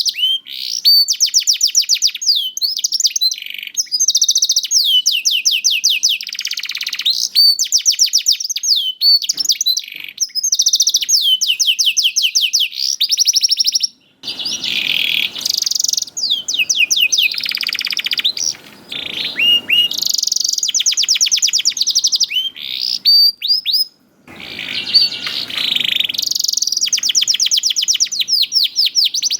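Domestic canary singing continuously and loudly in long, high-pitched trills of rapidly repeated falling notes. The song breaks off briefly twice, about 14 and 24 seconds in.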